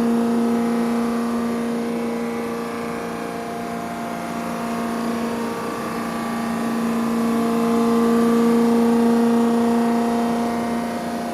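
Machine tool running steadily with a constant hum, its level slowly fading and swelling.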